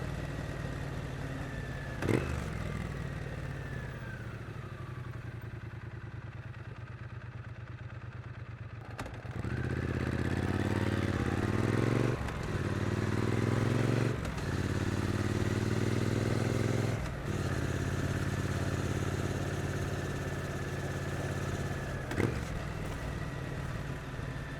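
Triumph Street Twin 900 parallel-twin motorcycle engine with stock exhaust, heard from the bike: it slows off the throttle with its pitch falling for several seconds, then accelerates hard through three quick upshifts and settles into steady cruising.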